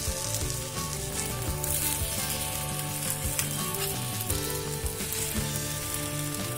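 Egg, rice and vegetable pancake batter sizzling steadily in hot oil in a nonstick frying pan, just after being poured in.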